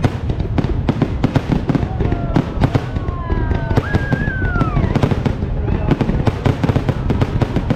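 A fireworks display going off: a dense, continuous barrage of bangs and crackles, with a few high gliding whistle-like tones about halfway through.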